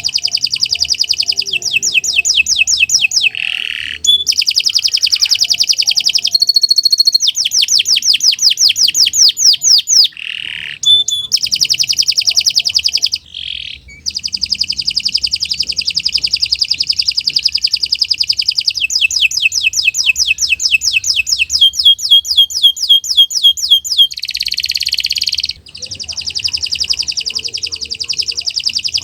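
Domestic canary singing a long, nearly unbroken song of fast trills and rolls, high-pitched, with a few short breaks between phrases.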